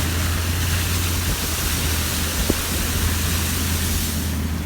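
Car driving, a steady low engine and road hum under a loud even hiss that fades away near the end, with a single click about halfway through.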